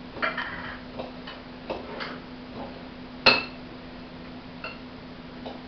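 Irregular metallic clinks and taps of pet food dishes during feeding, about a dozen at uneven intervals, the loudest a little past halfway, over a steady low hum.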